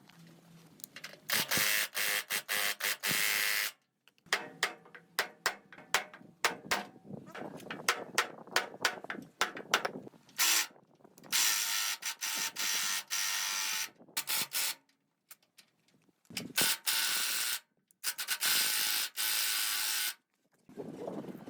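Workshop tool and metal-work sounds: several bursts of steady hiss, each cut off sharply, between stretches of quick irregular metallic clicking and ratcheting.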